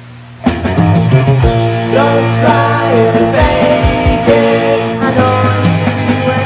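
Late-1970s rock band recording in an instrumental passage: electric guitar playing a melodic line with bends, over bass guitar and drums. The full band comes in loud about half a second in, after a quieter held chord.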